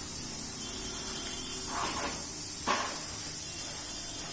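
Steady background hiss, strongest in the high range, with two brief soft swishes, one about two seconds in and a shorter one a little later.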